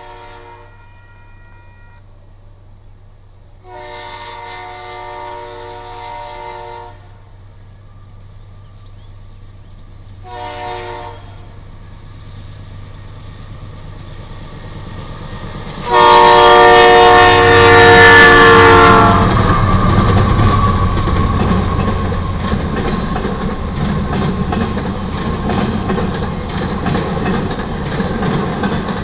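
Union Pacific freight locomotive horn blowing for the grade crossing: the tail of one blast, a long blast, a short blast, and then a final long blast about 16 seconds in that is far louder as the lead GE AC44CW locomotive reaches the crossing. Its pitch sags as the locomotive passes. After that the two AC44CW diesels and the freight cars roll by with a heavy rumble and wheels clicking over the rail joints.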